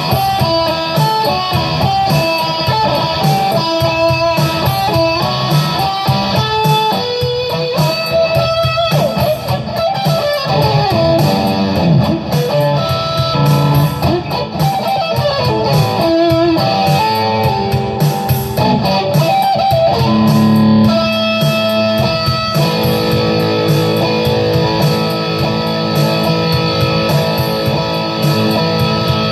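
Electric guitar playing an improvised lead, quick runs of single notes up and down a scale, settling into longer held notes in the last third.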